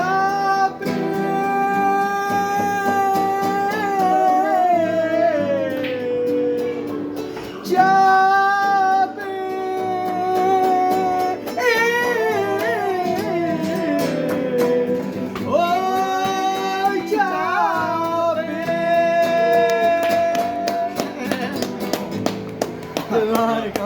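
Song passage with a wordless sung vocalise: long held high notes that bend and slide down in ornamented runs, in four phrases, over an instrumental accompaniment.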